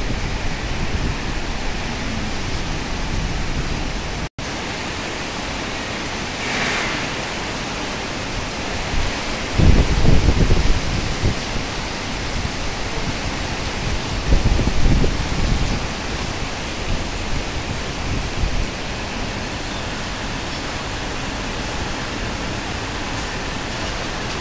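Heavy rain pouring steadily, a dense, even hiss. Two louder low rumbles rise out of it about ten and fifteen seconds in, and the sound drops out for an instant about four seconds in.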